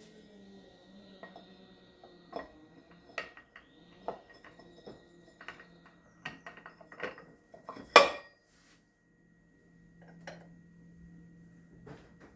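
Metal tools and parts clinking and knocking against one another in a run of irregular clanks, the loudest about eight seconds in.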